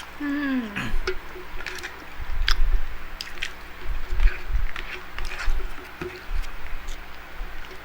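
Close-up eating sounds: wet chewing and squishing, with scattered sharp mouth clicks and low thumps. A brief voiced hum falling in pitch comes just after the start.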